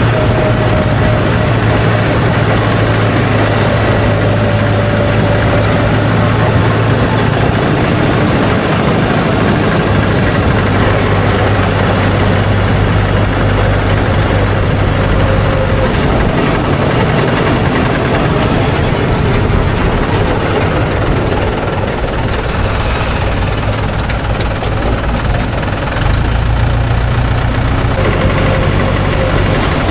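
Tractor's diesel engine running steadily and loud, its low note shifting slightly a couple of times.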